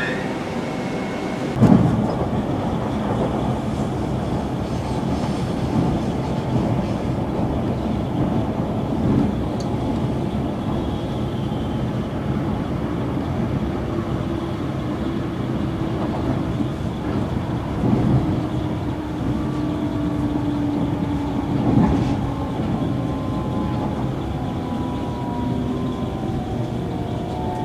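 A train running on the rails: a steady rumble with a few heavier knocks from the wheels and a steady hum in the middle stretch.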